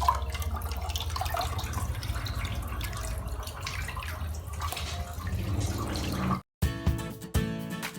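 Water sloshing and dripping over a steady low rumble of wind on the microphone. The sound cuts off suddenly near the end, and strummed acoustic guitar music starts.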